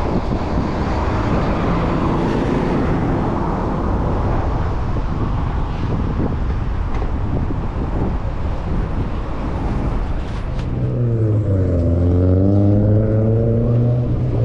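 City traffic and wind rumble heard from a moving bicycle. About ten seconds in, a nearby motor vehicle's engine comes in loud, its pitch rising and falling.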